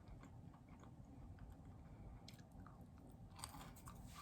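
Quiet close-up chewing of food, with faint mouth clicks and a few brief soft crunches.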